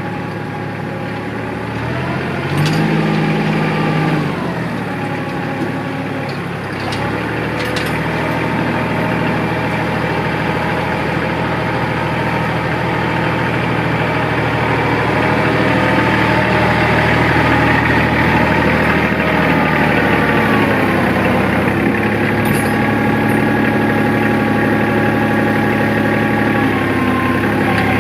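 Tractor diesel engine running, its speed stepping up and down a few times, with a few faint metallic clicks.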